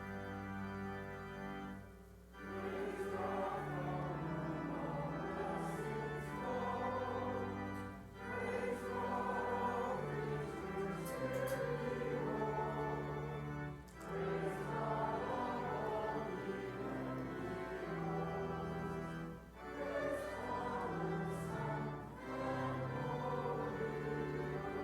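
Choir singing with organ accompaniment, in phrases of about six seconds separated by brief breaks.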